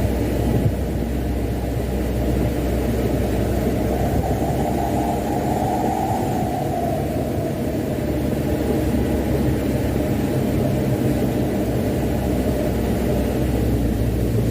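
Mitsubishi Canter dump truck's diesel engine and road noise heard from inside the cab while driving steadily with a load of sand, a low even drone that swells slightly a few seconds in.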